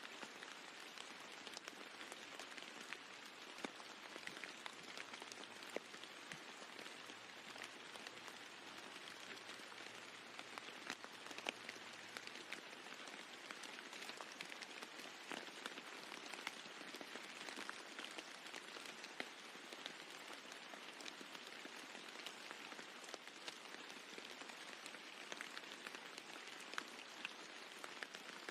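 Steady rain falling on a roof, with individual drops ticking sharply here and there over an even patter.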